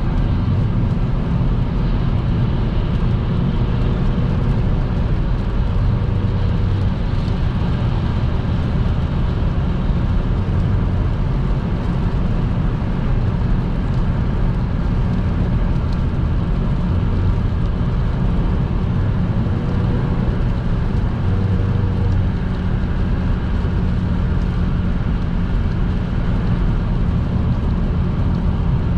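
Car driving at speed on a rain-wet motorway: steady tyre and road noise with the engine underneath. Faint brief tones come through twice.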